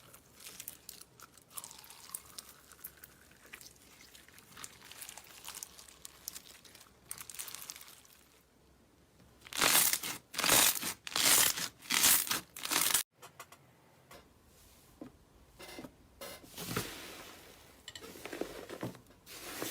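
Slime being squeezed, stretched and poked by hand, making crackly, sticky handling sounds. A run of about five loud bursts comes midway, then the sound cuts off suddenly and quieter, irregular handling follows.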